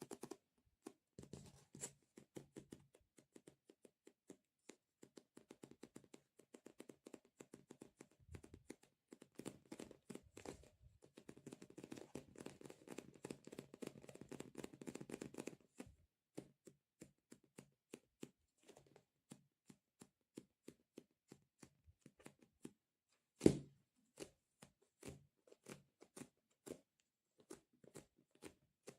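Close-miked ASMR handling sounds: a fast patter of small, soft, tacky clicks. They come in dense runs through the first half, then thin out to single ticks, with one louder knock about two thirds of the way in.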